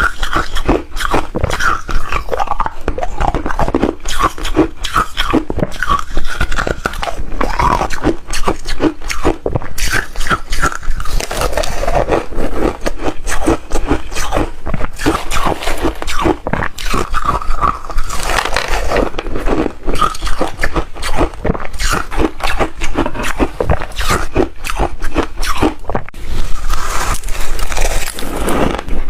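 Reshaved refrigerator ice being crunched and chewed in the mouth: a dense run of rapid, crisp crunches that goes on without a break.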